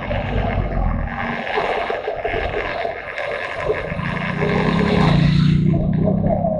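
Motorcycle engine running under way, with wind noise over the microphone. The engine note weakens for a couple of seconds, then grows louder again about four seconds in.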